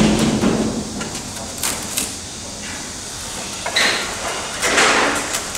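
Urethane spray foam hissing out of a foam gun into a wall gap, in short bursts, with a couple of sharp clicks from the gun partway through.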